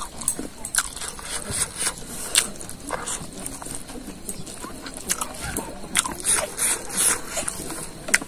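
Close, loud open-mouthed chewing and lip-smacking of a man eating rice with his hand: irregular wet smacks and clicks with no steady rhythm.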